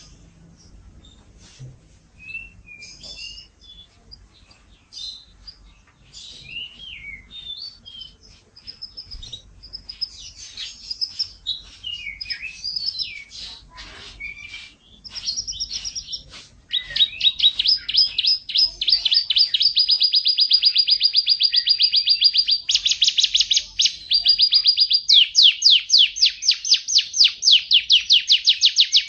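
Domestic canary singing: a string of varied chirps and short whistles, then, from a little past halfway, loud rapid trills of quickly repeated notes, held with only brief breaks.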